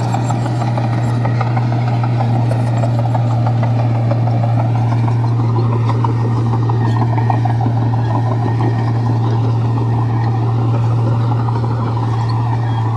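Komatsu bulldozer's diesel engine running steadily: a constant low hum under a rough rumble.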